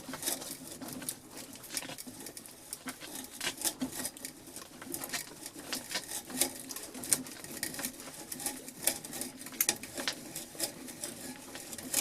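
Vintage hand-crank drill turning an old auger bit into wood: an uneven run of crackling clicks and ticks as the cutters shave the wood and the crank turns. The bit is still dull and turns a little tougher than the last one.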